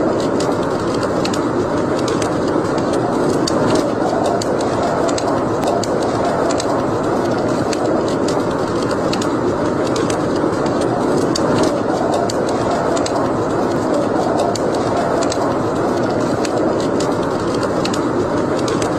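Wood fire burning in a fireplace: a steady rushing noise with frequent small, irregular crackles and pops.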